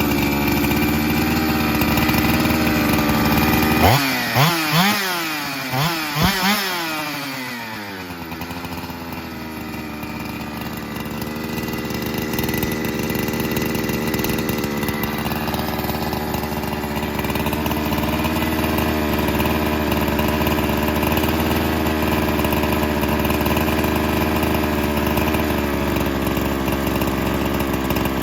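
Husqvarna 372XP two-stroke chainsaw running on its first startup. About four seconds in the throttle is blipped five times, each rev rising sharply and falling back, then the saw settles into a steady idle with a slightly wandering pitch, still needing carburettor fine-tuning.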